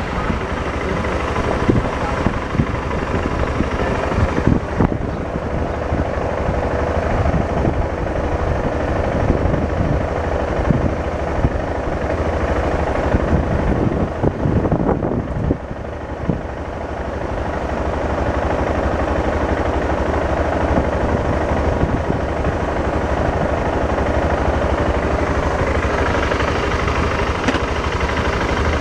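BMW motorcycle running under way, its engine rumble mixed with steady wind and road noise. The level dips briefly about halfway through, then builds again.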